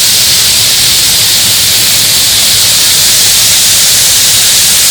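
Waterfall cascading over rock ledges close by: a loud, steady rush of water with no let-up.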